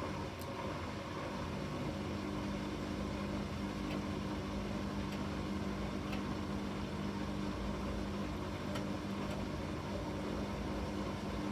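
Bosch front-loading washing machine running, a steady motor and drum hum with two held tones; it gets a little louder right at the start and then stays even.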